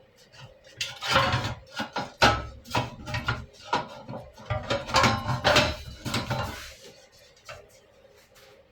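Metal parts being handled: a run of clanks, knocks and rattles with a light metallic ring, lasting about six seconds.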